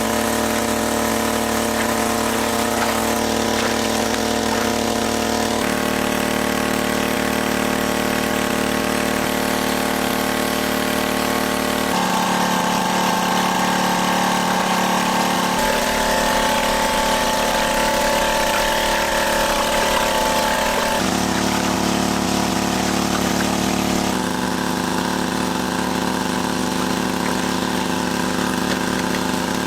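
A small engine running steadily, its tone changing abruptly every few seconds.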